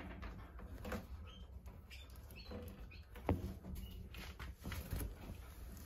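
Caged canaries giving scattered short, faint chirps, with a sharp tap about three seconds in.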